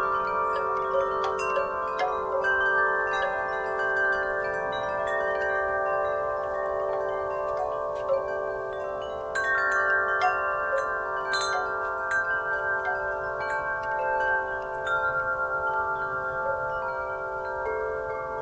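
Wind chimes struck irregularly by the breeze, many tuned tones ringing and overlapping in a sustained shimmer, with new strikes every fraction of a second.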